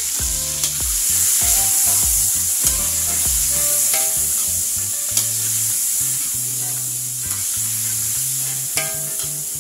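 Chopped tomatoes, garlic and onion sizzling in hot oil in a wok while being stirred with a metal ladle, which gives a few sharp clinks against the pan.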